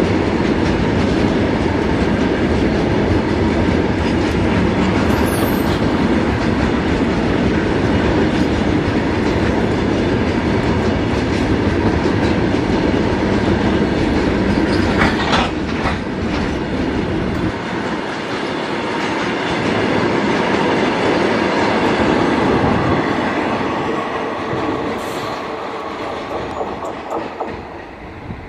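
Long freight train of covered goods wagons rolling past close by: a steady rumble with the clickety-clack of wheels over rail joints. A brief high wheel squeal comes a little after halfway. The sound fades as the last wagon goes by near the end.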